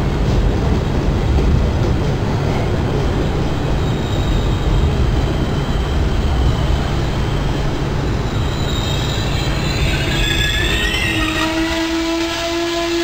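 Trenitalia regional passenger coaches rolling past along the platform with a steady rumble. From about nine seconds in, wheels and brakes start to squeal, first with gliding high notes, then a steady whine, as the rumble dies away and the train slows to a stop.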